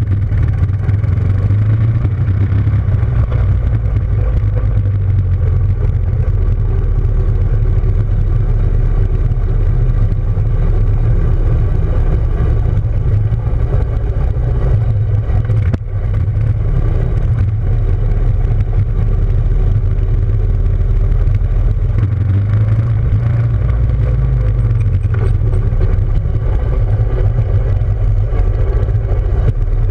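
Motorcycle engine running steadily, with a brief drop in level about halfway through.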